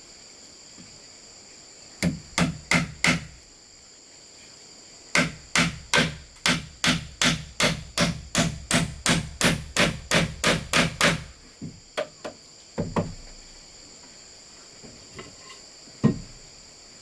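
Repeated blows of a hand tool on bamboo: a short run of five, then a steady run of about seventeen at roughly three a second, then a few scattered blows and one last loud one near the end.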